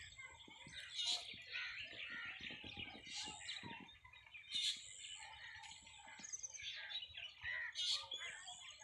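Many birds chirping and calling at once, overlapping chirps with a few sharper, louder calls.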